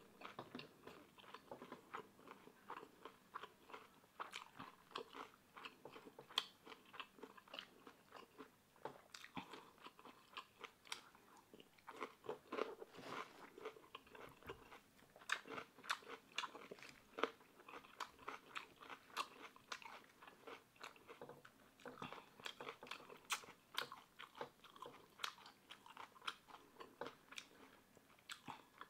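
A person chewing and crunching mouthfuls of food, with a dense run of small crisp crunches and wet mouth sounds.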